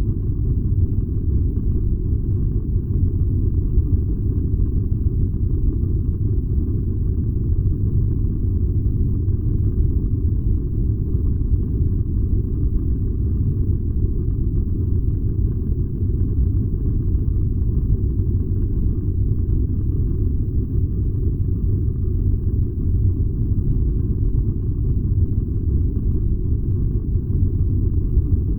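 Furnace running with a steady low rumble, unchanging throughout.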